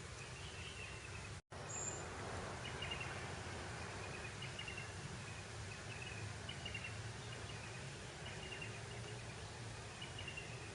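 Breeze over grassland, a steady soft hiss, with short high chirps from small birds or insects repeating about once a second. The sound cuts out completely for a split second about a second and a half in.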